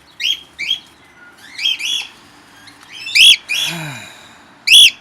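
Small aviary parrots chirping: a series of short, sharp, high calls, the loudest about three seconds in and again near the end.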